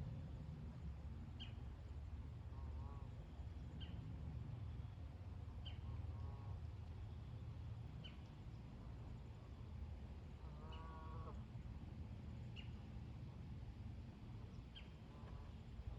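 Distant geese honking a few times, the longest call about two-thirds of the way in, over a low wind rumble, while a small bird gives a short high chip about every two seconds.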